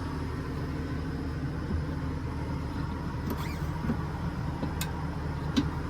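Steady low mechanical hum with a few light clicks in the second half.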